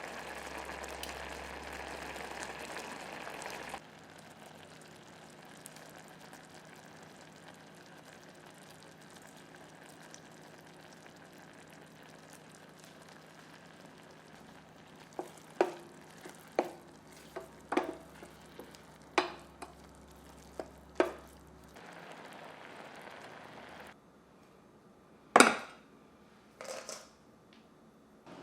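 Cooking in a pot: a steady sizzling, bubbling hiss, then a run of sharp taps and clinks of a utensil against the pot while stirring, and two louder knocks near the end.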